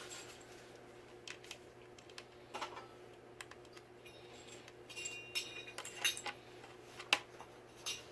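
Ceiling fan parts and metal hardware being handled: scattered light clicks and metallic clinks, a few ringing briefly between about five and seven seconds in, over a faint steady hum.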